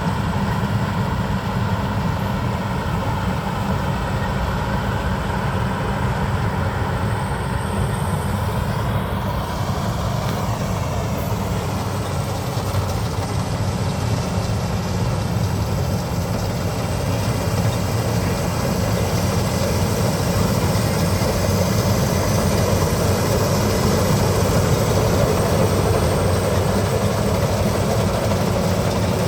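Engine of a Maxxi BIMO 102 rice combine harvester running steadily, growing a little louder about two-thirds of the way through.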